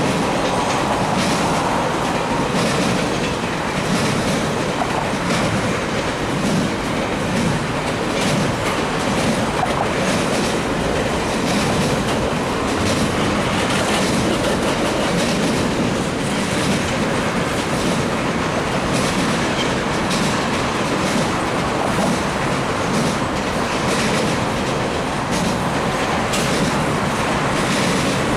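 Cars of a CN intermodal double-stack freight train rolling steadily past, their wheels clicking repeatedly over the rail joints.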